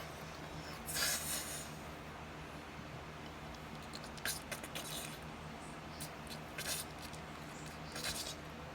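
Faint, brief rustles and taps as ingredients are handled and added to a mixing bowl, over a low steady hum.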